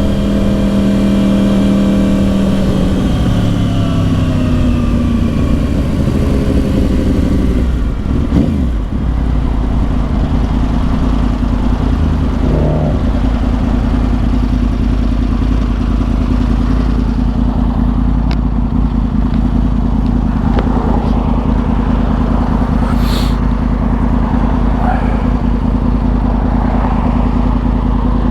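The crossplane inline-four of a 2010 Yamaha R1 with Yoshimura exhausts, its note falling in steps as the bike slows for about eight seconds. It then settles into a steady low idle.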